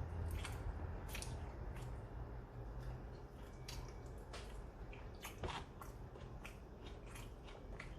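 A person chewing food close to the microphone: irregular wet smacks and clicks, several a second, over a steady low hum.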